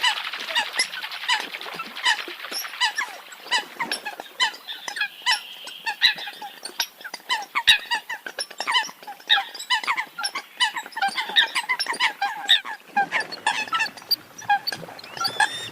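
A flock of Eurasian coots calling: many short, sharp call notes from several birds overlap, several a second, without a break. A hiss heard under the calls at the start fades out in the first couple of seconds.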